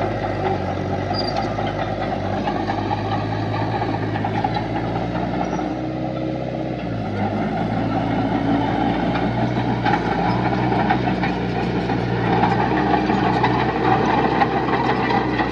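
Diesel engine of heavy earthmoving equipment running steadily under load, its pitch dropping briefly about halfway through and rising again near the end.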